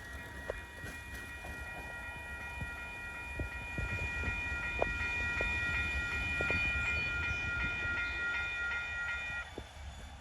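Train passing, with a low rumble and scattered clicks from the wheels on the rails. A steady high-pitched tone of several pitches sounds over it for about nine seconds, then cuts off near the end.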